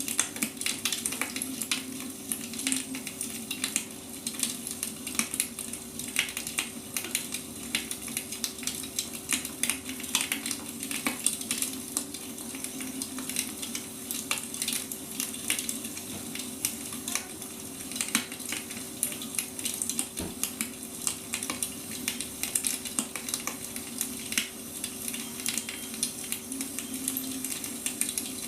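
Burning firewood crackling and popping steadily, with dense irregular snaps over a soft hiss.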